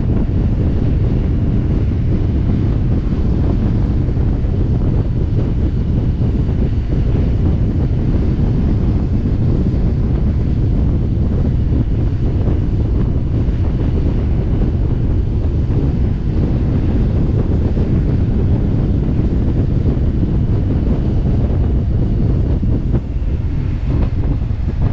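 Steady wind noise buffeting the microphone of a motorcycle cruising at road speed, a low rumble of engine and road underneath.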